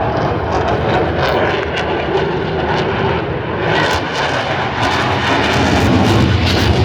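Loud jet noise from a Eurofighter Typhoon's twin EJ200 turbofans during a display flight, growing louder towards the end as the jet comes nearer.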